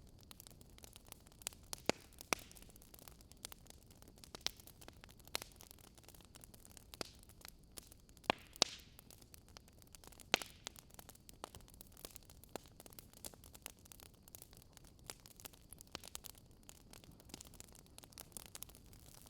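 Campfire burning with wood crackling: irregular sharp pops and snaps over a faint steady hiss.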